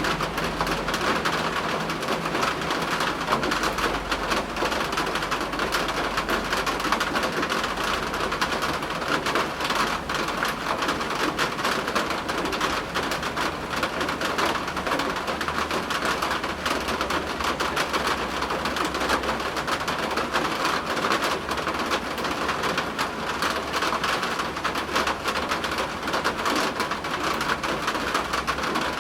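Steady heavy rain, an even hiss of dense drops, with distant thunder rumbling low underneath at times.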